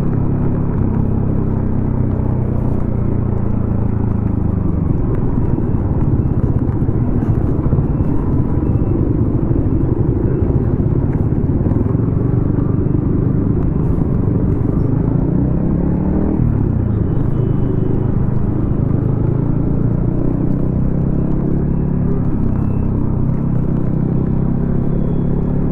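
Yamaha XSR155's single-cylinder engine through a DIY aftermarket exhaust, running under way with its pitch rising and falling as the rider accelerates and eases off. About sixteen seconds in, the revs drop and then climb again.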